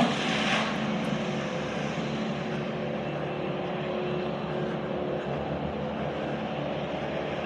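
A steady engine drone with a low, even hum that holds unchanged throughout.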